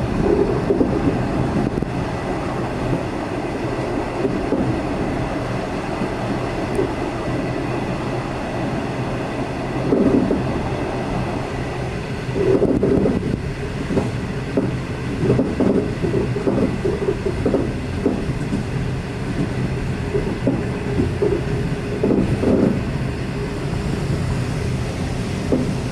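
V/Line passenger train running along the track: a steady low running noise, with irregular louder surges about ten seconds in and again through the second half.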